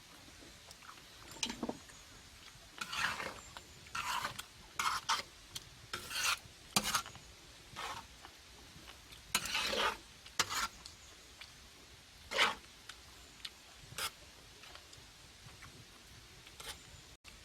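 Metal utensils scraping and rubbing against a pan or plate in irregular strokes, with a few sharp clinks, as food is stirred or cut.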